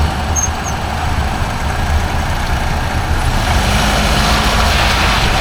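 Nissan X-Trail T31 running with a steady low rumble; a steady hum joins in a little over halfway. This is the strange noise the owner suspects comes from the propeller shaft.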